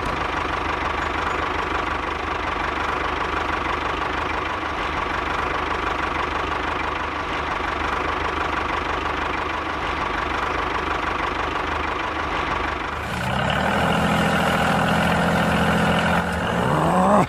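Tractor engine running steadily. About thirteen seconds in the sound changes to a higher, more tonal running note, which rises near the end and cuts off abruptly.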